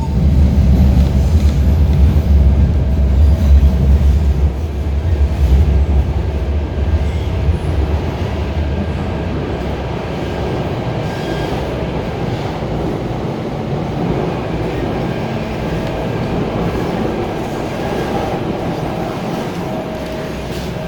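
MTR Tung Chung Line K-Train, a Hyundai Rotem electric multiple unit, running, heard from on board: a heavy low rumble that eases after about seven seconds into a steady running noise with a faint steady whine.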